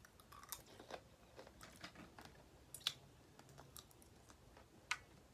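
Faint, scattered clicks and crackles of boiled crawfish shells being handled and cracked open, a few sharper snaps standing out about three seconds in and near the end.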